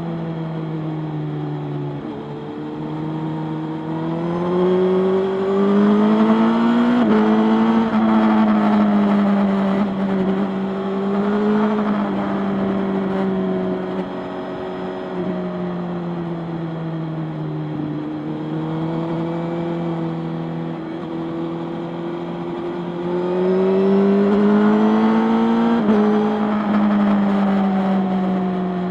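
Motorcycle engine running while riding, its pitch climbing twice as it accelerates, a few seconds in and again past twenty seconds, with steadier cruising between.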